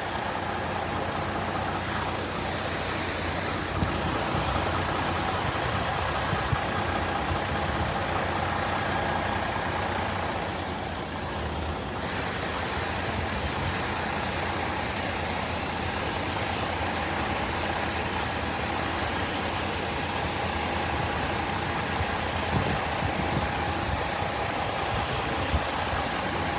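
Steady rushing roar of water pouring from a fire hydrant sheared off by a truck, with vehicle engines idling underneath.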